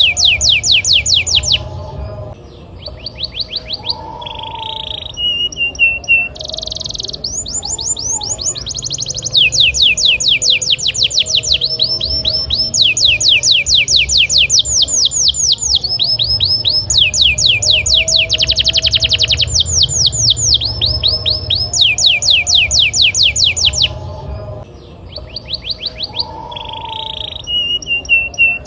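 Domestic canary singing a long rolling song: fast trills of repeated downward-sweeping notes, phrase after phrase of a few seconds each, changing speed and pitch with short breaks between, over a faint low hum.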